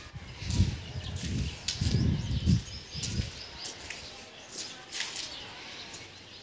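Small birds chirping outdoors, with irregular low rumbling bumps on the microphone during the first half.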